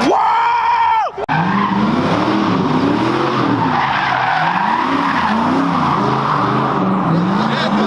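A car engine revving up and falling back over and over, more than once a second, over the steady hiss of tyres skidding on pavement. The first second holds one higher rev that climbs and drops before a brief break.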